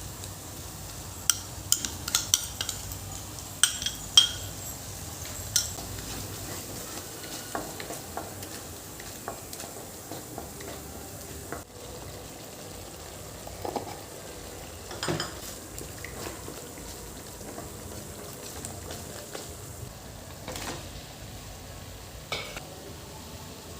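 Food frying in a pan with a steady sizzle while a metal spoon stirs and knocks against the pan, giving sharp clinks that come often in the first few seconds and more sparsely after.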